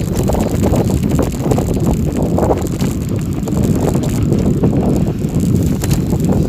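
Bicycle rolling over a gravel forest road, tyres and drivetrain rattling with light clicks, under heavy wind noise on the microphone.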